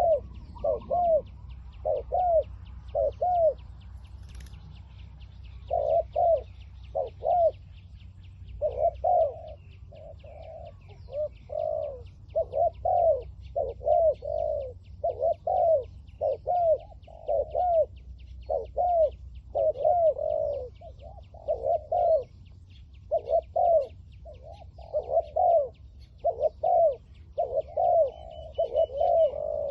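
Spotted doves cooing over and over: short, arching, mellow coos in quick groups with only brief gaps. A faint, fast, even ticking runs higher up throughout.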